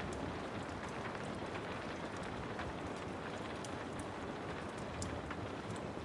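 Steady rain hissing, with scattered sharp pops and crackles from a wood fire in a fireplace every second or so.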